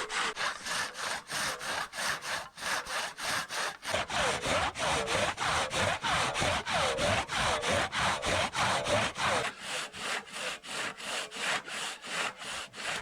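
Hand saw cutting through a hard old bog oak log in quick, even back-and-forth strokes, about three a second. The strokes grow louder and heavier for several seconds in the middle, with a ringing note from the blade.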